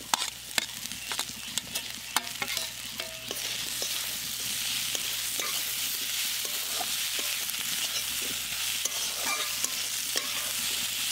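Fried potato sticks tipped from a metal plate into a hot aluminium kadai, clattering in with sharp knocks, then stirred with a metal spatula scraping and clicking against the pan. From about three seconds in, a steady sizzle of the oil and spices takes over.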